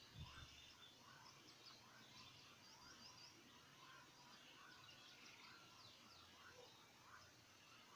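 Faint birdsong: short chirps and warbling phrases from small birds, repeating throughout over a quiet background, with a couple of soft low thumps right at the start.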